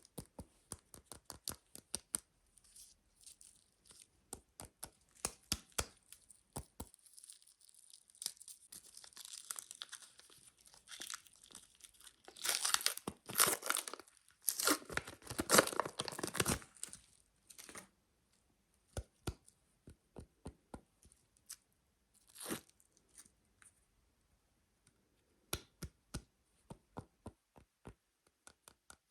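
Soap packaging being torn open and crinkled for about five seconds near the middle, between runs of light taps and clicks.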